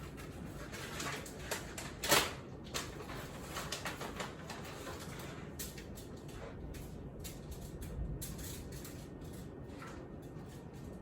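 Scattered knocks and clatters of household items being handled, with one sharper knock about two seconds in.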